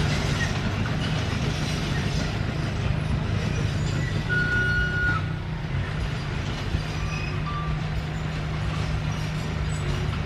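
Komatsu D21P bulldozer's diesel engine running steadily with a low hum, and a short high tone a little before the middle.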